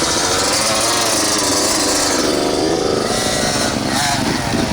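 2019 Yamaha YZ125 two-stroke dirt bike engine running as it warms up, with a brief rise in revs about two seconds in.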